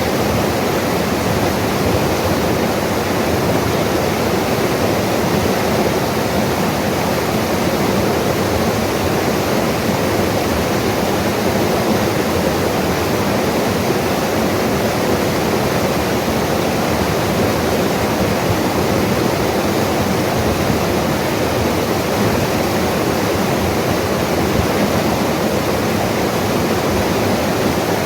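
Mountain river rushing steadily over rocks, a loud, even torrent of water.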